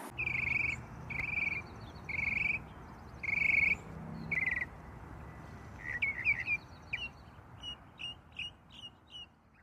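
A songbird singing: five short, clear phrases repeated about once a second, then a run of quick chirps over the second half.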